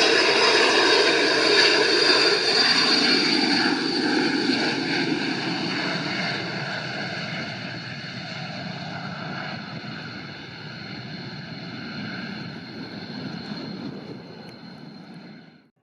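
Yakovlev Yak-40's three Progress AI-25 turbofan engines, a jet roar with a high whine, fading steadily as the aircraft flies away, the whine falling slightly in pitch. The sound cuts off suddenly near the end.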